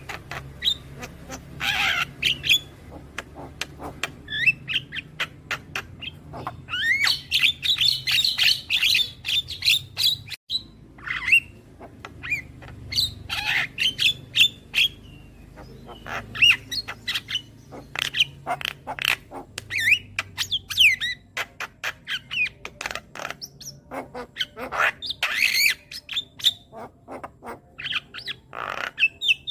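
Javan myna (jalak kebo) calling: a continual run of short, harsh squawks, clicks and whistled chirps, with a dense burst of chattering a few seconds in.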